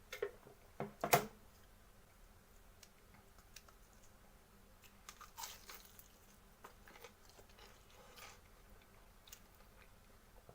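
Someone biting into and chewing crisp fried chicken: a few loud crunches in the first second or so, then quieter chewing.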